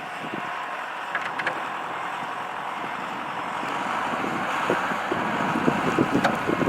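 Heavy vehicle engine running steadily, slowly getting louder partway through, with wind buffeting the microphone.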